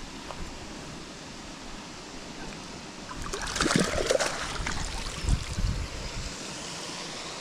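River water running steadily over a riffle, with a louder stretch of handling or splashing noise about halfway through.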